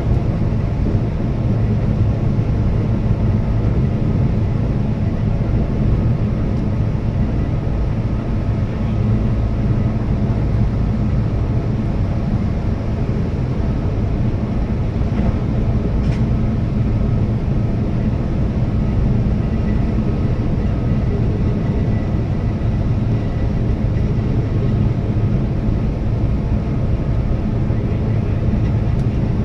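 Keihan electric train running at speed, heard from inside: a steady low rumble of wheels on rail and running gear, with a faint steady whine over it.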